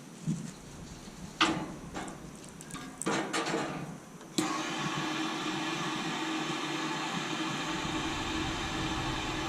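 A few irregular knocks and clatters, then about four seconds in a steady mechanical hum cuts in suddenly and runs on evenly.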